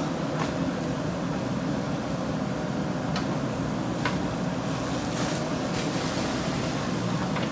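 JCB 3DX backhoe loader's diesel engine running steadily under work, with a few faint clicks.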